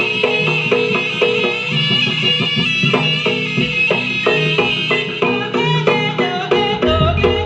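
Jaranan ensemble music: a shrill reed melody like a slompret over steadily repeating drum and gamelan percussion strokes. A deep low tone enters near the end.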